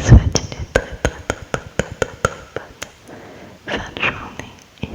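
ASMR mouth sounds close to the microphone: a run of wet clicks and smacks, about three or four a second, with a breathy stretch a little before four seconds in.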